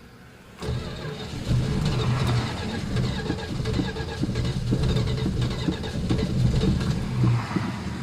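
Cold-start attempt on a long-sat 1980 Chrysler LeBaron V8. About half a second in, the starter cranks and the engine fires, running unevenly for several seconds on gasoline poured down the carburetor, since there is no fuel in the carburetor's bowl.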